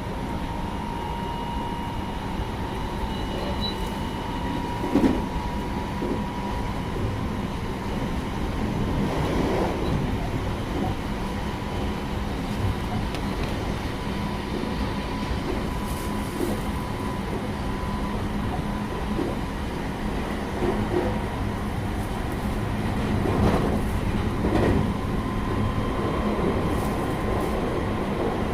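Running sound inside the Kumoha 223 motor car of a JR West 223 series 6000-series electric train travelling at speed. A continuous rumble is joined by a steady whine, with a few sharp knocks from the wheels on the track, the loudest about five seconds in.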